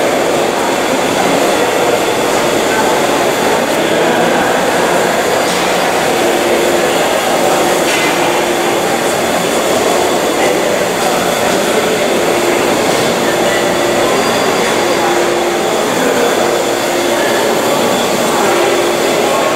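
Busy train station ambience: a steady, loud rumble with a murmur of voices and a faint hum that comes and goes.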